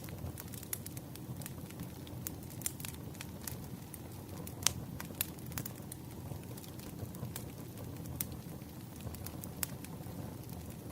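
Burning firewood crackling, with irregular sharp pops and snaps over a low steady rumble, one pop louder than the rest near the middle.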